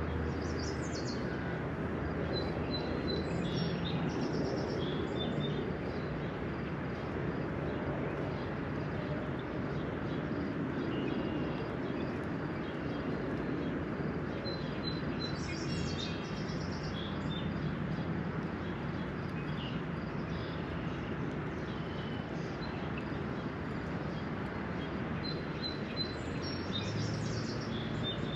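Birds singing over the steady hiss of a spring rain shower, with a low steady hum underneath. One bird repeats a short song of quick high notes three times, about every twelve seconds.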